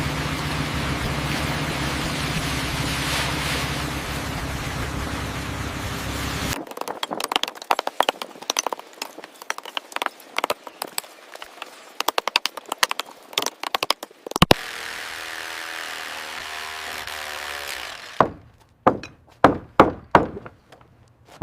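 Construction work sounds: a steady machine drone with a low hum, breaking off into a long run of rapid clicking and knocking that ends in one sharp crack. Then a steady drone returns, and near the end come about five loud knocks, roughly half a second apart.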